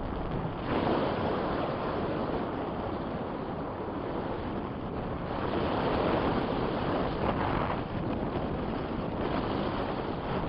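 Strong wind buffeting the microphone: a steady rushing noise that swells and eases in gusts.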